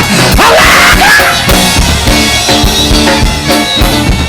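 Live gospel band playing with a steady drum-kit beat and sustained instrumental chords, with a brief vocal line in the first second.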